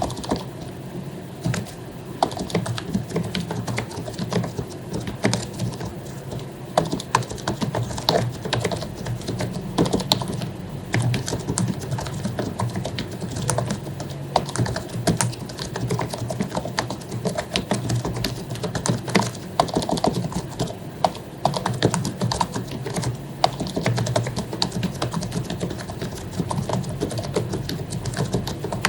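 Continuous typing on an HP membrane keyboard with lubricated keycaps: a dense, unbroken run of key clicks.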